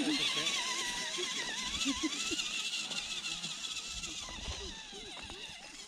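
Electric motor and gearbox of a radio-controlled scale crawler truck whining, the pitch wavering up and down as the throttle is fed on and off.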